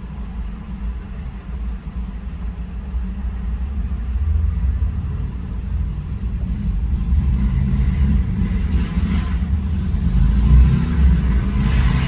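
Low rumble of motorcycle engines on a highway, growing louder, with the engines revving.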